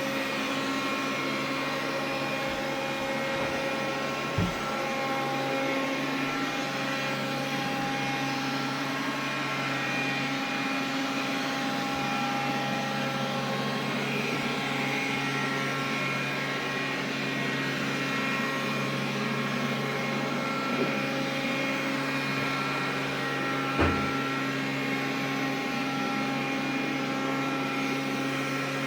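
Xiaomi vacuum cleaner running steadily, a constant hum with several steady whining tones, sounding the extraneous noise the owner is checking. Two short knocks, about four seconds in and near 24 seconds.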